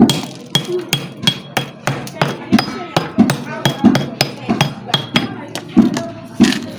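Stone being pecked with a hard striker, one sharp knock roughly every half second, chipping at a worn grinding stone's surface to roughen it again.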